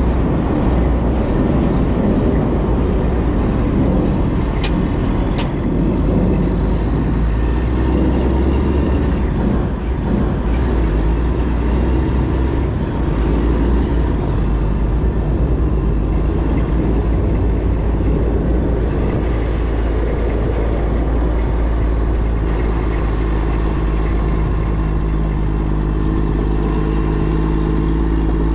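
Semi truck's diesel engine running with a steady low rumble and road or cab noise. Two short high chirps come about five seconds in, and near the end the engine note settles into a steady hum.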